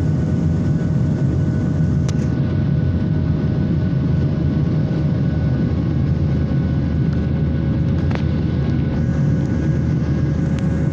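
Steady drone of a passenger airliner in flight heard from inside the cabin: a dense, unchanging low rumble of engines and airflow with a few faint steady tones over it. Two faint clicks, about two seconds in and about eight seconds in.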